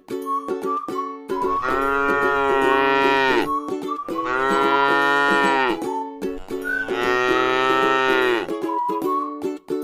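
A cow mooing three times, each a long drawn-out call, over light ukulele music.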